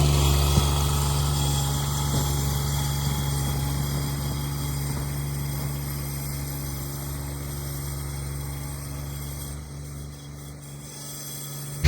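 Cub Cadet 1782 garden tractor's engine running at a steady speed with an unchanging note, slowly growing fainter through the stretch.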